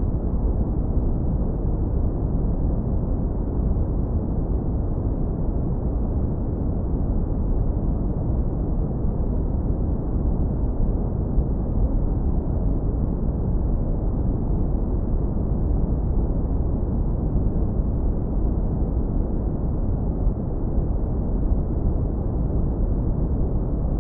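Steady brown noise, heavily low-pass filtered to a deep, warm rumble with no high end and no changes.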